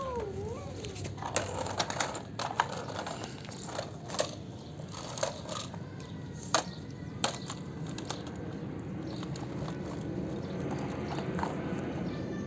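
A short wavering pitched tone in the first second, then a string of sharp clicks and knocks, like small hard objects being handled or set down, mostly in the first seven seconds, the loudest about six and a half seconds in.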